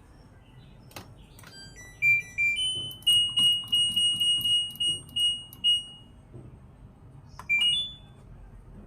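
Electronic beeps from an LG inverter washing machine's control panel: a short stepped rising run of tones about two seconds in, then one high beep repeating several times until about six seconds, and a quick rising three-note chime near the end.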